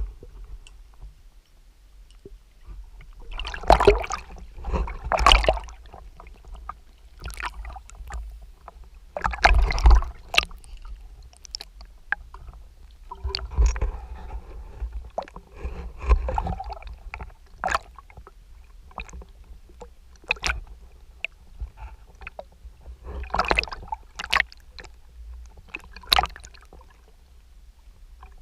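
Water splashing and sloshing in irregular surges with scattered sharp clicks, over a steady low rumble; the loudest splashes come about four, ten and twenty-four seconds in.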